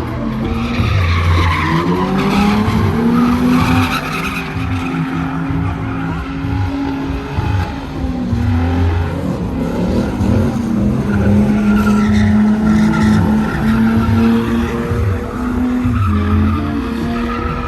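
Truck engine held at high revs with its rear tires spinning and screeching on pavement in a burnout.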